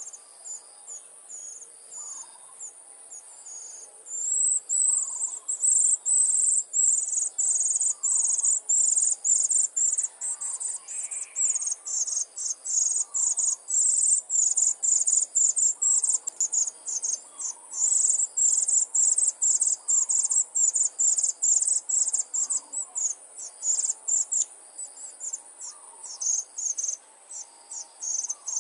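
Rapid, high-pitched chirping, several pulses a second, becoming much louder about four seconds in. A faint, lower call repeats roughly every second and a half underneath.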